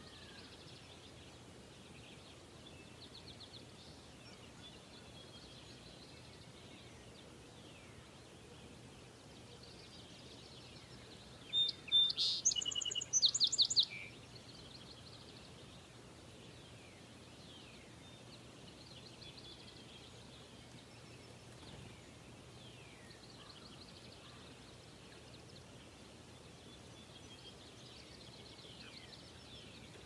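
Songbirds chirping faintly and intermittently over a quiet outdoor hiss, with one loud, close bird song of rapid trilled notes lasting about two seconds near the middle.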